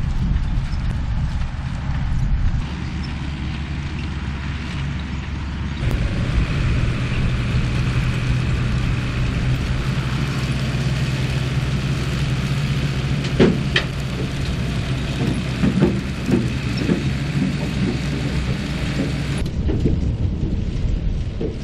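Tractor engine running steadily, with a few sharp knocks and rattles in the second half.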